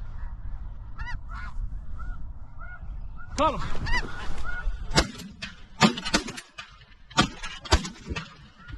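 A flock of snow geese calling, many overlapping honks with the birds close and loud. In the second half, several short, sharp sounds stand out, the loudest a little past the middle.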